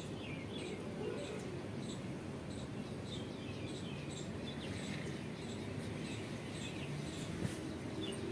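Small birds chirping over and over, short falling chirps, over a steady low background noise.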